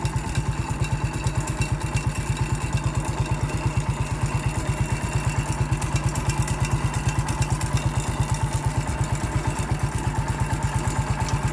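Massey Ferguson MF 14 bulldozer's engine running steadily with a fast, even exhaust beat.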